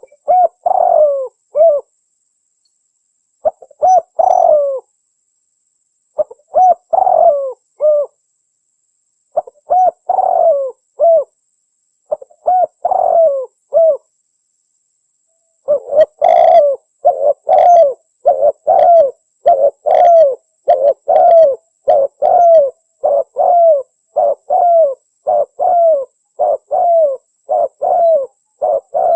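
Spotted dove (tekukur) cooing: short multi-note coo phrases about every three seconds, then about halfway through a fast run of short coos, nearly two a second. It is a recorded lure call used to draw wild spotted doves.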